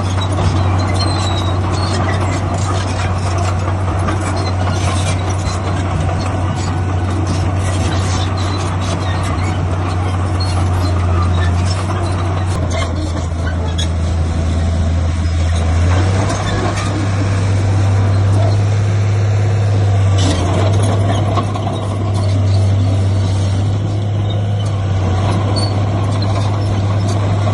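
Heavy diesel earthmoving machinery running under load: a steady low engine drone with clattering noise over it, the engine note shifting about halfway through.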